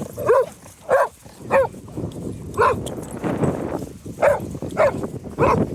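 A dog barking repeatedly during play, about seven short barks spaced roughly half a second to a second apart.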